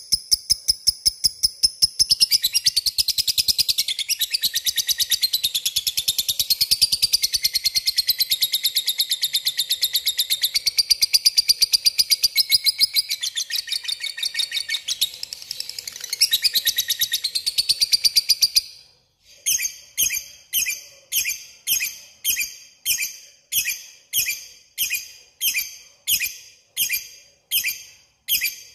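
Lovebird giving its long 'ngekek' call, a rapid high chattering trill held without a break for about eighteen seconds. It then breaks off into separate short chirps about twice a second.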